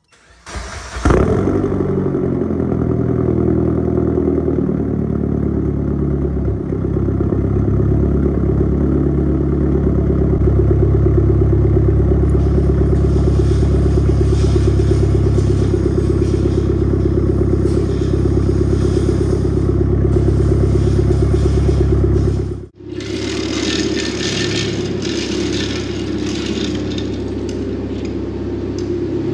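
Mitsubishi Lancer Evolution X's turbocharged four-cylinder engine, fitted with an open dump and full titanium exhaust, starting about a second in and then idling loudly and steadily. After a sudden cut near the end, the idle goes on under a rattling clatter.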